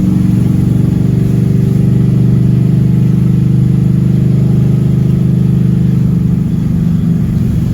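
Chevrolet Camaro Z/28's V8 engine running steadily under way while driving, its note holding even; the engine is running well.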